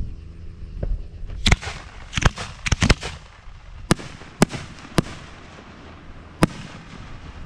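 Professional fireworks display shells going off: a quick run of sharp reports starting about a second and a half in, then single cracks spaced out, about eight in all, each with a short echo.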